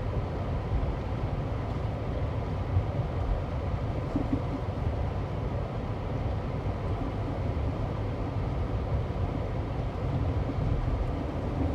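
Car driving on a slushy, wet road, heard from inside the cabin: a steady low rumble of tyres and engine.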